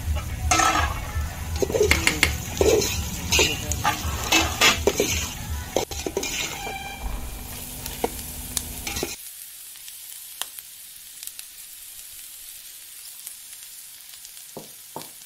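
A metal skimmer scrapes and stirs onions frying in mustard oil in an aluminium pot, with frying sizzle under the strokes. About nine seconds in the stirring stops abruptly and only a softer, even sizzling hiss remains, with a couple of clicks near the end.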